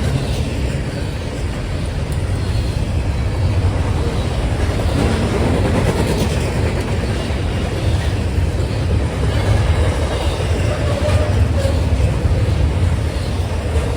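Train rolling past: a steady low rumble of wheels on rail, with some clickety-clack from the cars.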